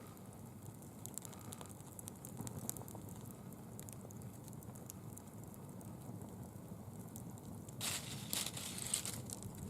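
Bonfire burning dry fallen leaves, crackling with many small pops over a low steady rush. About eight seconds in, a louder crackling, crinkling burst lasts for over a second.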